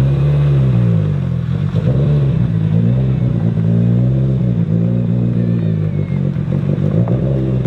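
Rally car engine revving hard, its pitch climbing and dropping several times in a row.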